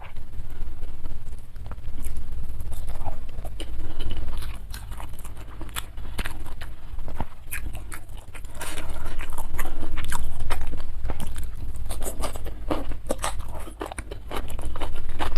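Close-miked chewing and biting of food, with irregular crisp crunches and mouth clicks that grow denser and louder about halfway through.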